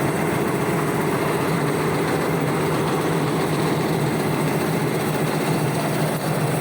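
High-speed warp knitting machine for net fabric running steadily: a fast, even mechanical clatter over a constant hum.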